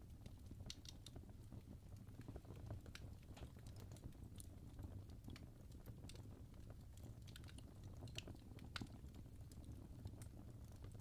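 Wood fire crackling in a fireplace: faint, irregular sharp pops and snaps over a steady low rumble.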